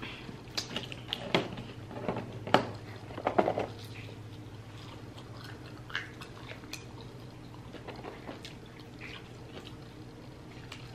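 Chewing and mouth sounds of people eating fried chicken sandwiches and fries: scattered soft clicks and wet smacks, busiest in the first few seconds, over a low steady hum.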